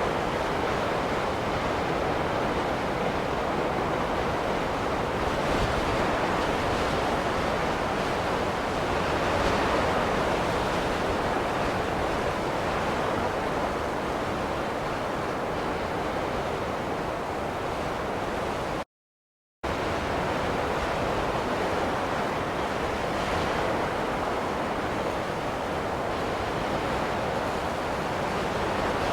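Snowstorm wind ambience: an even rushing noise with slight swells. It cuts out to silence for under a second about two-thirds of the way through.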